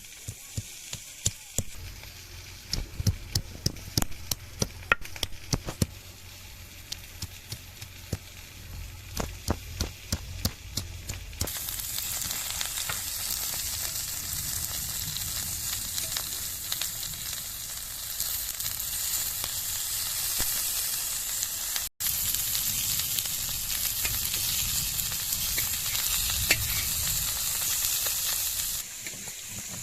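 Food frying in a cooking pot: for about the first eleven seconds, sharp crackles and clicks over a low sizzle. Then a steady, louder sizzle starts suddenly and cuts off shortly before the end.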